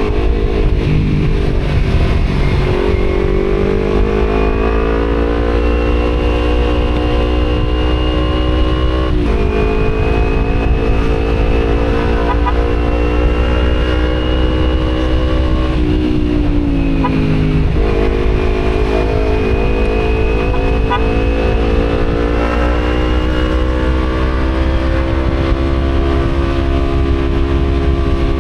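Kawasaki Z250 parallel-twin engine through an Akrapovic exhaust, pulling steadily with its pitch climbing. The pitch drops sharply at a gear change about nine seconds in, sinks as the bike slows just past the middle, then climbs again. A steady low wind rumble on the microphone runs underneath.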